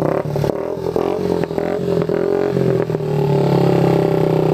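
Small motorcycle engine running hard; its revs waver and dip in the middle, with some clattering clicks, then hold steady and high again near the end.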